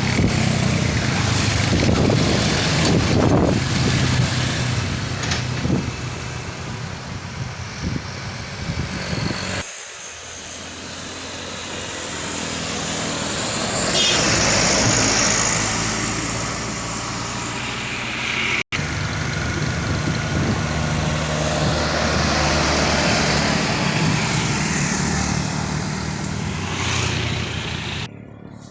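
Heavy trucks' diesel engines labouring in low gear as they crawl up a steep bend and pass close by. The sound cuts off sharply about a third of the way in and again about two thirds of the way in, each time switching to another passing truck.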